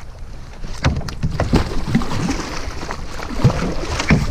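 Water splashing with irregular knocks and thumps around a kayak while a hooked bass is fought close to the boat. It starts quieter and grows busier about a second in.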